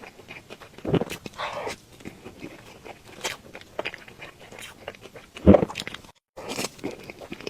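Close-miked mouth sounds of a person eating cake: soft chewing and wet smacking clicks. A louder knock or smack comes about five and a half seconds in, followed by a brief dropout to silence.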